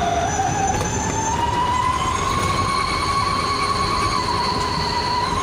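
Truck fitted with a 'wolf' whistle exhaust (knalpot serigala) at highway speed: a howling whistle that rises in pitch over the first two seconds, then holds, dipping slightly near the end, over the rumble of engine and road.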